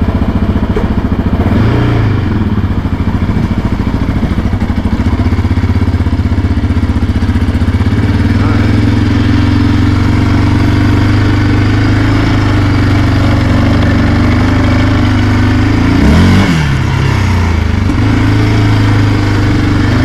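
ATV engine running steadily at low, even revs while ridden slowly, with a quick drop and recovery in revs about sixteen seconds in.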